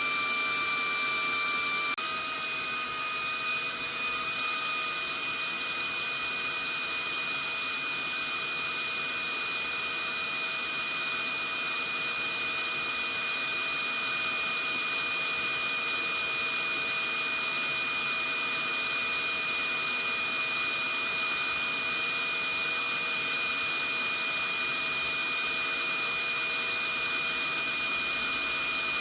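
Vacuum cleaner motor running steadily, a constant high whine over a rush of air. About two seconds in, its pitch steps slightly higher and it gets a little louder, then settles back to an even hum.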